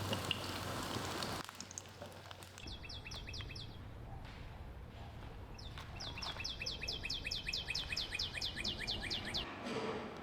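A songbird singing a fast trill of repeated, quickly falling whistled notes, about six a second: a short run, then a longer one of some twenty notes. Before it, steady rain hiss that stops about a second and a half in.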